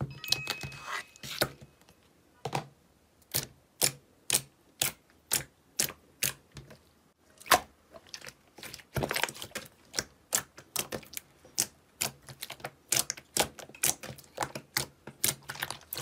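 Slime being handled: sharp, irregular clicks and pops, a few each second, with denser crackling stretches in the middle and toward the end.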